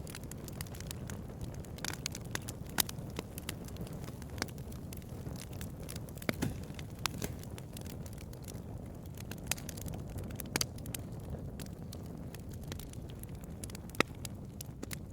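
Wood bonfire burning: irregular crackles and sharp pops over a steady low rumble of the flames, with one loud pop near the end.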